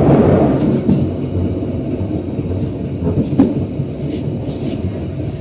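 Passenger train running along the track: a steady rumble of wheels on rail, a little louder in the first second, with a few light clicks.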